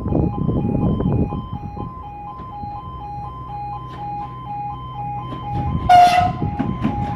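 Level crossing warning alarm (E2S sounder) alternating between two tones, with a train's low rumble growing as it approaches. Just before six seconds in, a short, loud, shrill blast of the Class 755's horn.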